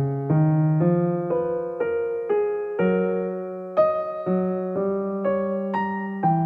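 Soft background music: an electric piano playing slow, gentle notes, a new note or chord about every half second.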